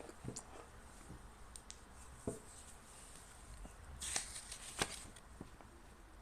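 Handling of a flashlight and its packaging: scattered small clicks and taps, with a brief rustle and two sharper clicks about four to five seconds in.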